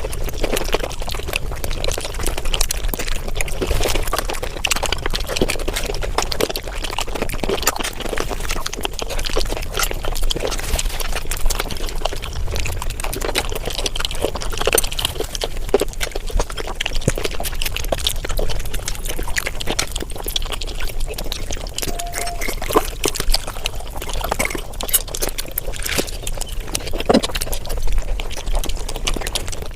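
Close-miked mukbang eating sounds sped up about five times: a dense, rapid run of wet chewing, smacking and slurping clicks.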